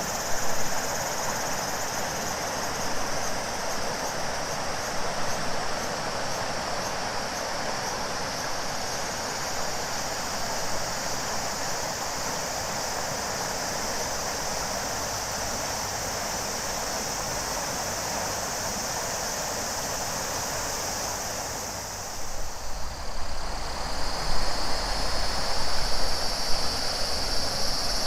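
A large river flowing steadily, with a chorus of cicadas shrilling in a steady high drone over it. About three-quarters through the sound dips briefly and shifts: the cicada drone settles slightly lower and a low uneven rumble comes in under the water.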